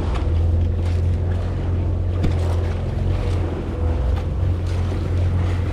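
Boat engine running steadily with a low hum, mixed with wind on the microphone and sea-water noise.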